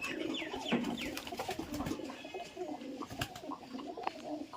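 Several pigeons cooing at once, a continuous low overlapping murmur, with a few short falling high notes in the first second and scattered sharp clicks.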